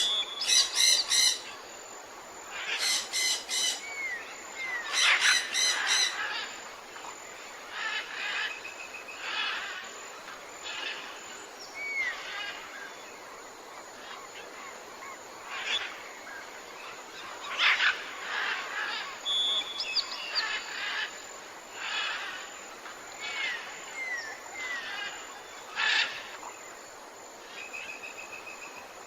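Tropical birds calling: loud series of squawks in quick succession during the first six seconds, then scattered chirps and short upslurred whistles for the rest of the time.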